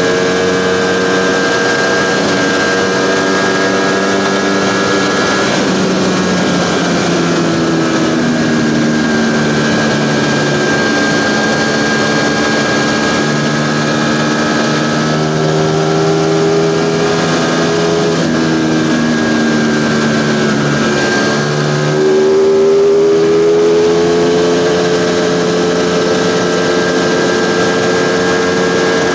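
Ducati Panigale V4's V4 engine running under way, heard through a wireless mic on the bike. Its pitch drifts down and up with a few sudden steps like gear changes, then climbs and grows slightly louder about three-quarters of the way through as the throttle opens.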